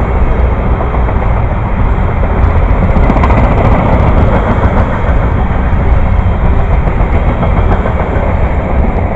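Tropicana "juice train" of refrigerated boxcars rolling past: a loud, steady rumble of steel wheels on the rails, with faint clicks about three seconds in.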